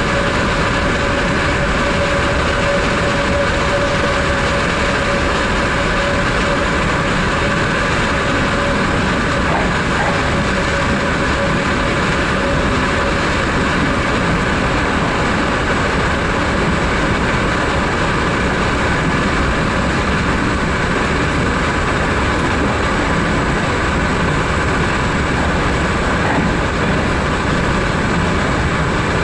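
Running noise of a Vivalto double-deck regional train carriage in motion, heard on board: a steady rumble of wheels on rail with a faint whine that fades out about halfway through.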